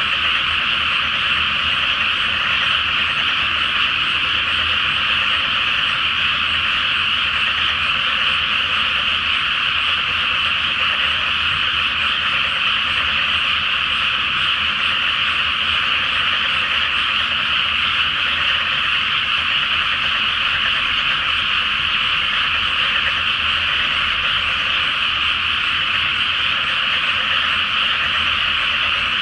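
A dense chorus of many frogs calling at once, a high, steady, unbroken wall of calls with no pauses.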